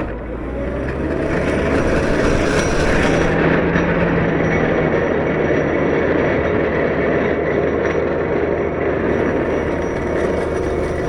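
CAT 908 compact wheel loader's diesel engine running under load with a loud, steady grinding rumble as it pushes snow, after a sharp knock right at the start.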